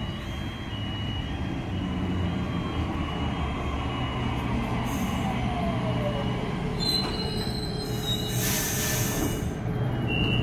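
Sydney Trains Waratah electric train rolling into the platform and slowing to a stop, with a steady low rumble, a falling whine as it slows, and a burst of air hissing about eight seconds in. A high beep repeats about once a second.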